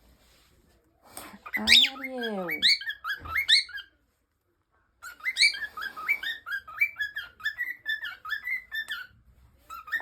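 Cockatiel chirping: quick runs of short, rising whistled notes, one run about a second and a half in and a longer one from about five to nine seconds in.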